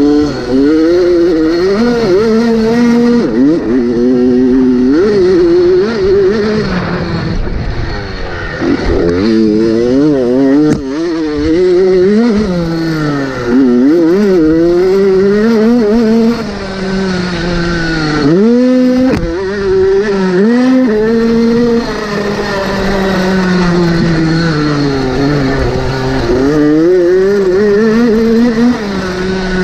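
Motocross bike engine running hard, its pitch climbing and falling again and again as the throttle is worked and gears change, with deep drops in pitch about two-thirds of the way through and at the very end.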